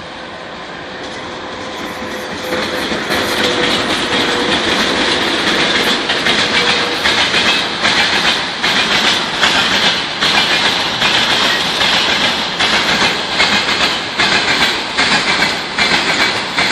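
Train wheels clattering over rail joints: a rhythmic clickety-clack that grows louder over the first few seconds, then keeps a steady beat of knocks.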